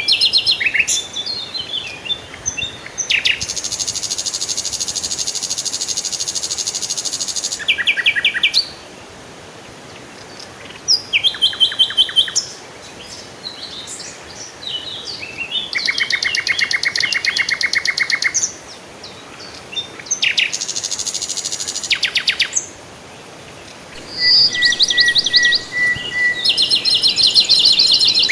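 Songbirds singing in a series of phrases of rapid trills and chirps, with short pauses between them; the longest trill lasts about four seconds early in the sound.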